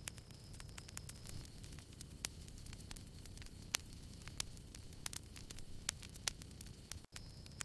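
Small campfire crackling: irregular sharp pops and snaps over a low steady rumble of burning wood, with a faint steady high tone. The sound drops out for an instant about seven seconds in.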